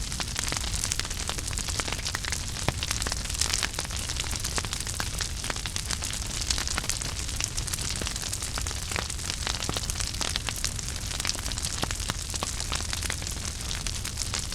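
Wood fire burning in a fireplace: steady hiss and rumble with dense small crackles and pops throughout.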